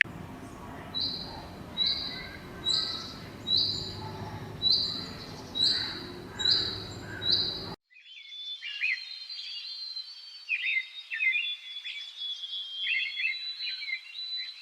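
High calls from small animals: a clear high piping note repeated about once a second, eight times. After a sudden cut, a busier stretch of quick bird chirps and short trills follows.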